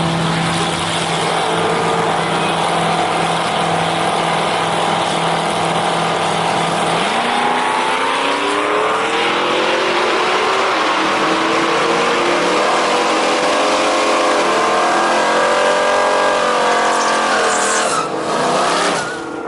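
A 1963 Chevy pickup drag-racing engine held at steady revs for several seconds, then accelerating hard, its pitch climbing in several stages as it pulls through the gears, before cutting off abruptly near the end.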